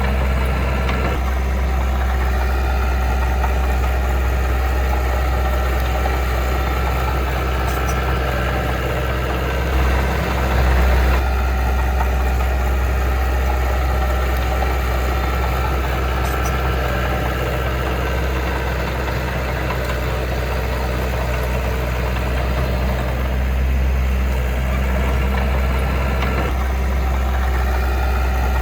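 Heavy diesel engine of construction machinery running steadily at an even speed, with a brief swell about ten seconds in.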